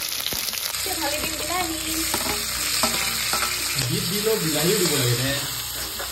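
Onions and chopped tomatoes sizzling in hot oil in a wok while a spatula stirs them. A low voice-like sound rises and falls under the sizzle at times, most clearly a little past the middle.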